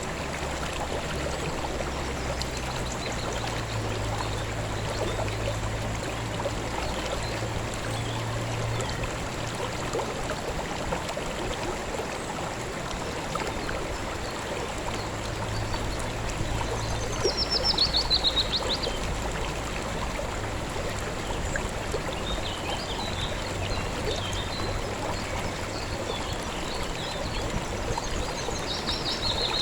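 River water flowing steadily. A bird gives a descending chirped trill about two-thirds of the way through, and a few fainter chirps follow near the end.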